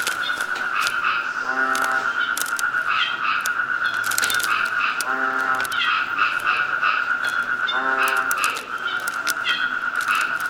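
Footsteps crunching irregularly through jungle floor litter over a steady, high insect chorus, while a frog gives a low croaking call about every three to four seconds, four times.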